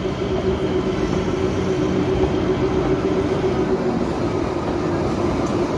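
A train at a station platform, running with a steady droning hum.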